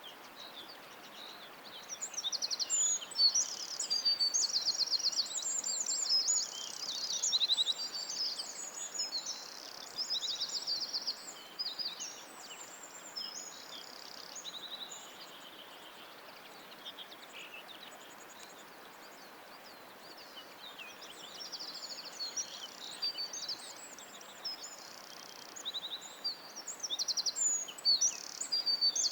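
Songbirds singing high, fast trills and chirps over a faint steady hiss. The singing is busy for the first ten seconds or so, thins out through the middle, and picks up again near the end.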